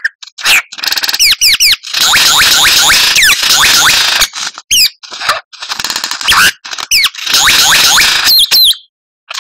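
White-rumped shama (murai batu) singing a varied, loud song of quick whistled slurs and trills alternating with long harsh rattling passages, the 'kretekan' rattle prized in contest birds, then breaking off briefly near the end.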